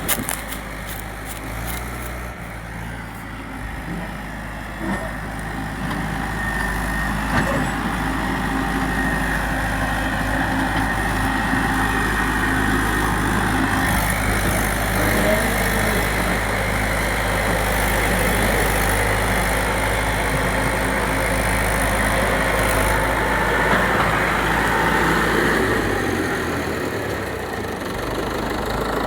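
Tractor diesel engine running steadily. It gets louder a few seconds in and drops back near the end.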